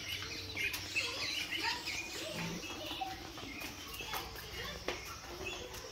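Birds chirping in scattered short calls, over a faint murmur of voices.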